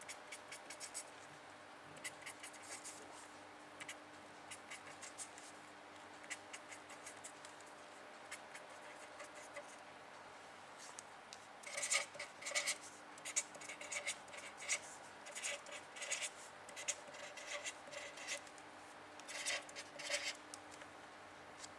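A pen scratching out quick writing and drawing strokes, faint and scattered at first, then denser and louder about halfway through.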